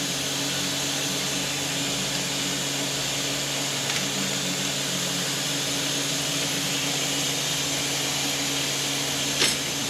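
Steady machine hum with an even rushing hiss over it, unchanging in level: an electric motor and moving air running continuously in the shop.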